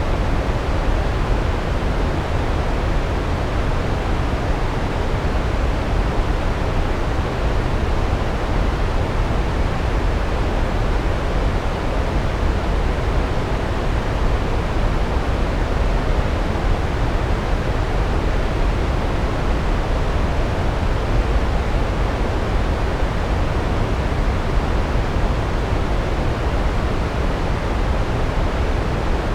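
Large waterfall pouring steadily: a constant deep rush of falling water, strongest in the low end.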